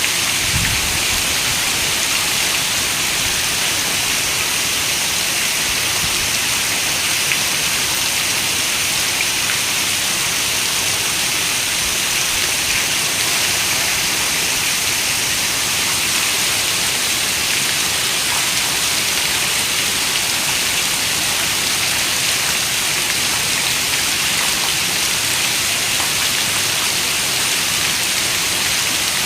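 Steady rain falling, an even hiss of raindrops that holds unchanged throughout.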